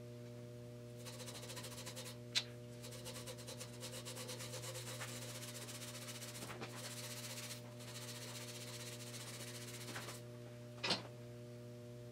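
Rapid back-and-forth rubbing as a rubber grommet loaded with valve grinding compound is spun around a differential shaft by a string, lapping its pitted seal surface smooth. The rubbing stops about three-quarters of the way through, with two sharp clicks, over a steady electrical hum.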